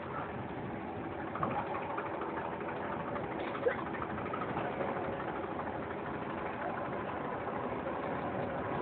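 Steady drone of distant engines under a general outdoor haze, recorded on a mobile phone, with a few brief chirps and small clicks.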